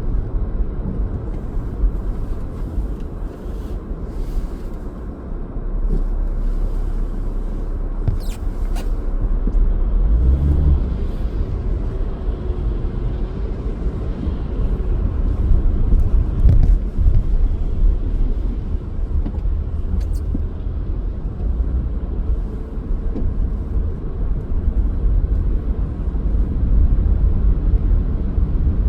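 A car driving, heard as a steady low rumble of engine and road noise, with a few faint clicks and knocks.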